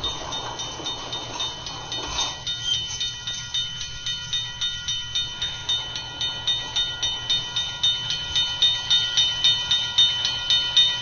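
Freight train cars rolling past, their wheels clicking rhythmically over the rail joints a few times a second, growing louder near the end, with a faint steady high ringing from the wheels.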